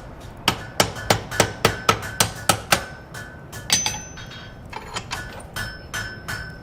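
Blacksmith's hammer striking hot iron on an anvil while forging a hand-made nail: a quick run of about nine blows, roughly three a second, then a single blow and lighter, spaced taps, with the anvil ringing between strikes.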